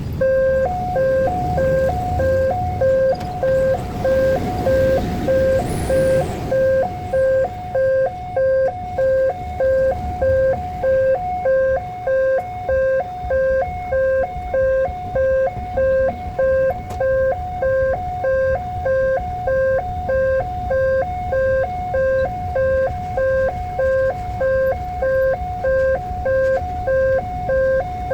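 Electronic warning alarm of an Indonesian railway level crossing sounding, a two-tone ding-dong that repeats about every three quarters of a second, starting about half a second in. A vehicle rumbles past during the first few seconds.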